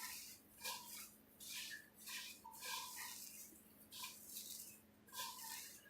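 Fried papad being crushed into crumbs by hand: a run of dry, crisp crunches, roughly two a second.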